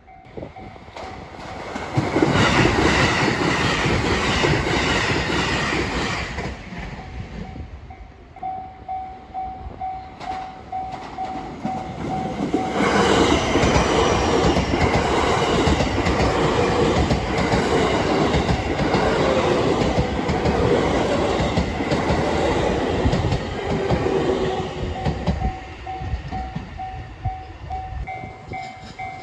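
Trains passing over the rail joints at a level crossing, their wheels clattering over the joints in two loud passes, the first short and the second longer. A level-crossing warning bell keeps dinging throughout and is heard clearly between and after the passes.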